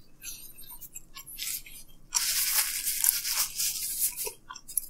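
Close-miked chewing of crisp, oven-reheated thin-crust pizza crust: scattered crunches, then a dense run of crunching from about two seconds in.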